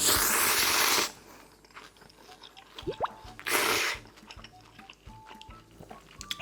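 Close-miked eating noises: a loud, noisy burst about a second long at the start and a shorter one about three and a half seconds in, over soft light background music.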